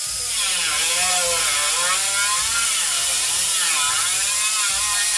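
Power tool cutting into car-body sheet steel, with a dense hiss and a whine that keeps dipping and rising in pitch as the load on the tool changes.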